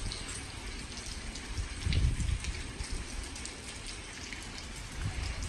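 Rain falling, with many small scattered drop ticks over a steady hiss, and a brief low rumble about two seconds in.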